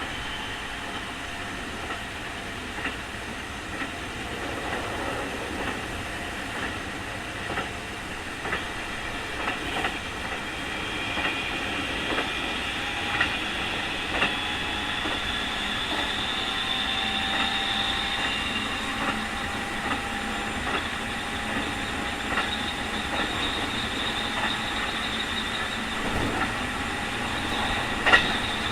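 Keikyu 2000 series (Mitsubishi field-chopper) electric train car running, heard from inside, with rail-joint clicks every second or so. Over it is a high whine that climbs slowly in pitch for several seconds from a third of the way in and then holds steady. This is the unusually strong "jet sound" of this car, which is known as an abnormal-noise car.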